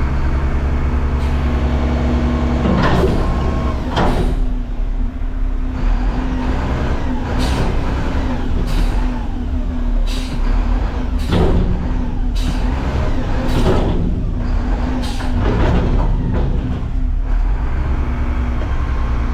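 Garbage truck's diesel engine running steadily, with short sharp knocks or hisses recurring every second or two from about three seconds in.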